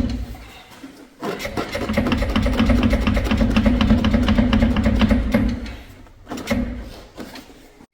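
Handheld power tool running in bursts on a car's engine or transmission fasteners: a brief burst at the start, one long run of about four and a half seconds, and another brief burst near the end, each with a steady motor hum and fast, even clattering.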